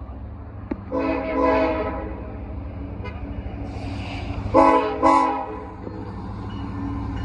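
Diesel freight locomotive's multi-chime air horn sounding a blast of about a second, then two shorter blasts in quick succession about four and a half seconds in. Underneath runs the steady low rumble of the SD70ACe's diesel engine and the train on the rails.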